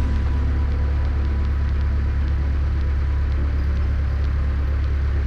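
Cessna 152's four-cylinder Lycoming engine and propeller running steadily at low taxi power, a constant low drone heard from inside the cockpit.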